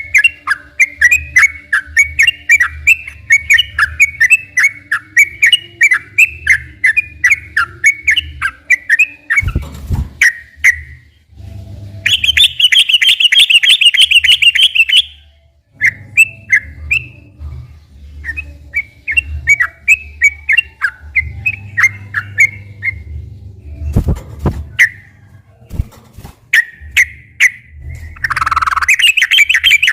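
Sooty-headed bulbul (trucukan) singing a long, fast run of chirping notes several times a second, broken twice by a dense rattling trill. A couple of dull knocks sound about ten seconds in and again later.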